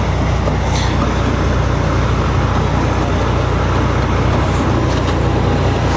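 Truck engine running steadily: a constant low drone with an even wash of road or engine noise over it.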